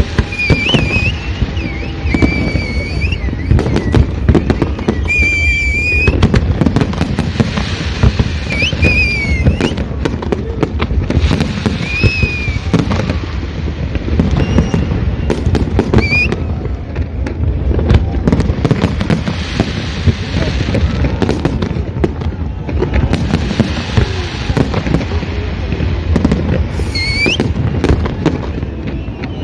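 A fireworks display: a continuous, dense barrage of bangs and crackling pops, loud throughout. Short high whistling glides cut through every few seconds.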